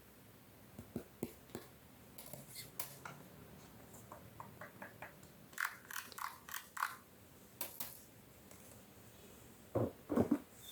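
Clicks, light scrapes and quick rattling ticks of small hard parts and tools being handled, with two heavier knocks near the end.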